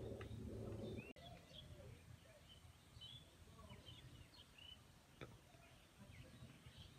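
Faint small birds chirping in the background, short quick chirps through the whole stretch. A low rumble of background noise in the first second cuts off suddenly, and a faint click comes about five seconds in.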